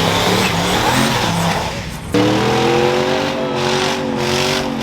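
Truck engines running. About two seconds in, a loud sustained squeal sets in and holds, like tires spinning in a burnout.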